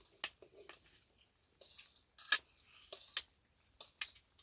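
Fork and knife clinking and scraping on a plate while eating: a string of sharp clicks, the loudest a little past halfway, with a short scrape before it.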